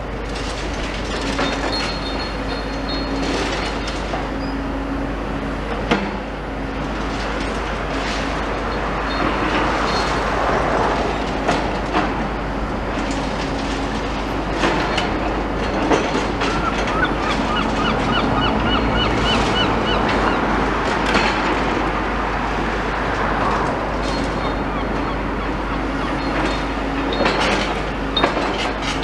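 Tracked demolition excavators at work: a steady diesel engine hum with scattered metallic clanks and crunches of rubble, and a fast run of squeaky ticks in the middle, like track links or a grab squealing.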